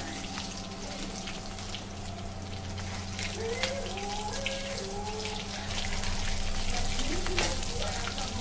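Fish roe frying in hot oil in a kadai: steady sizzling with many small pops. A metal spatula knocks against the pan a couple of times as the pieces are turned and lifted out.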